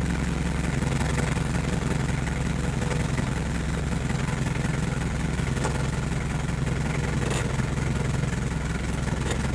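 A steady low mechanical hum with a hiss over it, even throughout.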